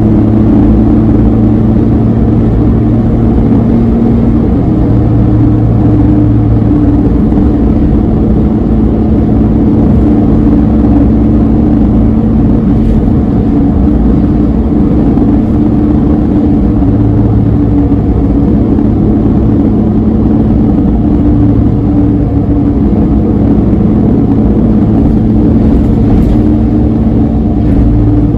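Suzuki Alto Van (HA36V) three-cylinder engine droning steadily at expressway cruising speed, with tyre and road noise, heard inside the cabin.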